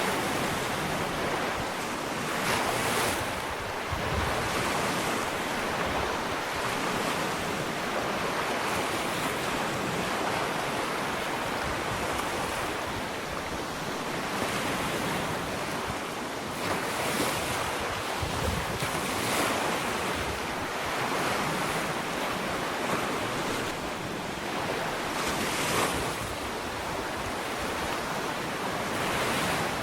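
Ocean waves lapping on a sandy beach: a steady wash of surf that swells every few seconds as waves break, with some wind noise on the microphone.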